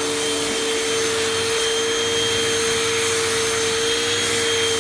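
Panasonic Performance Plus Platinum MC-UG589 upright vacuum's 12-amp motor running steadily, drawing air through its hose and crevice tool: a steady whine over a rush of air.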